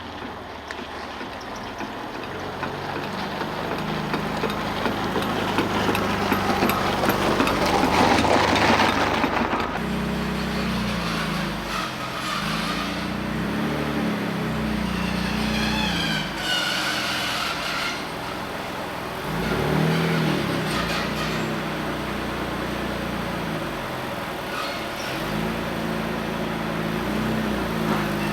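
Mitsubishi 3000GT VR-4's twin-turbo V6 running as the car creeps forward, revs rising and falling several times. Under it, a scraping rumble from a jack under the rear differential rolling along the pavement, loudest about eight seconds in.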